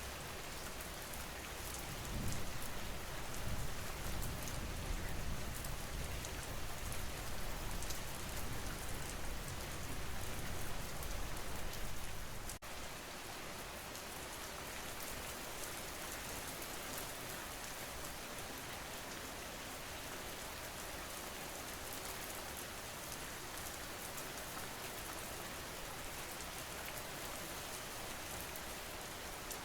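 Steady rain falling, a recorded rain track for sleep. A low rumble comes in about two seconds in and lasts some ten seconds, ending with a brief dropout near the middle; after that only the even rain goes on.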